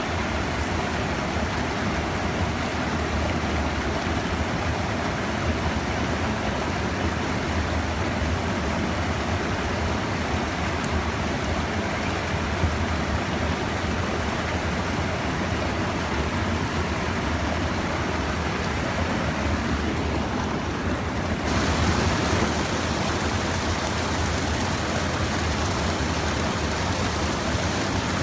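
Steady rush of flowing stream water. The sound shifts and grows a little louder about three-quarters of the way in.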